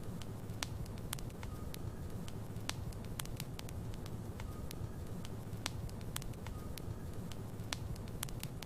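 Logs burning in a fireplace: a steady low rumble of flames with sharp, irregular crackles and pops, roughly one or two a second.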